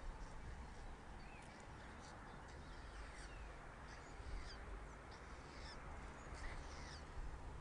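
Faint bird chirps and short calls, scattered a few times a second, over a low steady rumble.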